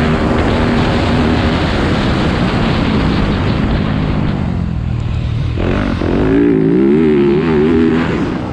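Yamaha YZ250F four-stroke dirt bike engine running on a motocross track under a steady rushing noise. Late on, its pitch rises and falls several times as the throttle is worked.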